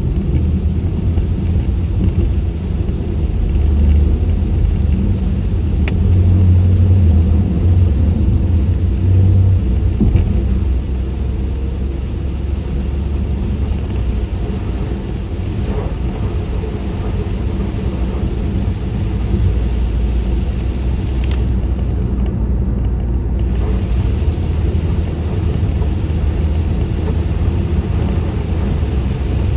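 Car cabin noise while driving on a wet road with the windows up: a steady low road-and-engine rumble with tyre and rain hiss over it. A few faint ticks come through, and the hiss drops out briefly about three quarters of the way in.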